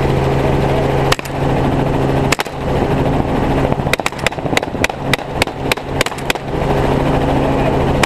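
Rifle shots fired from a hovering helicopter over the steady drone of its engine and rotor: a couple of single shots, then a quick string of about eight semi-automatic shots near the middle.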